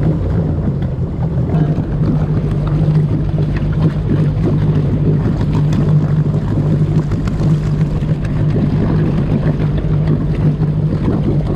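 Amphibious boat-car under way, its engine making a steady low drone under a constant rushing hiss.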